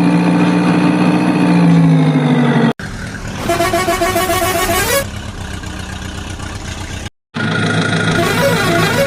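Dubbed toy-vehicle sound effects: a steady two-tone horn-like drone that sags in pitch and cuts off, then a warbling police-style siren, a stretch of rough engine-like noise, and after a brief cut-out the siren warbling again.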